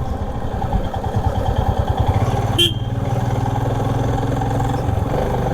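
Royal Enfield Himalayan's single-cylinder engine running at low speed with a steady pulsing beat, crawling in slow traffic. A short sharp sound comes about two and a half seconds in.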